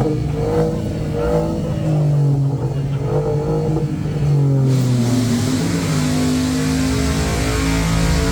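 A car engine running and being revved, its pitch rising and falling. A steady broad hiss comes in about halfway through.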